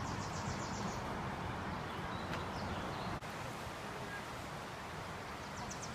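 Steady outdoor ambience on a forest trail, a constant even rush. A bird gives a fast, high trill of evenly spaced notes near the start and again near the end.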